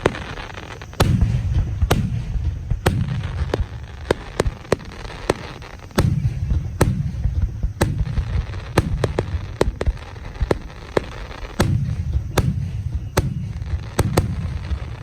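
Aerial fireworks display: a run of deep booms from bursting shells, each trailing off in a rumbling echo, with many sharp cracks and pops scattered between them.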